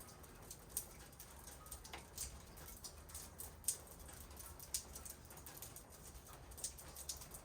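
Light rain in a backyard: irregular drops and drips tapping, a few a second, over a faint steady low rumble.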